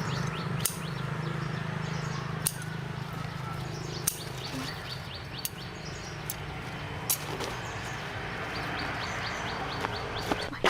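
Birds chirping in quick runs of short falling chirps, with sharp clicks every second or two over a steady low hum.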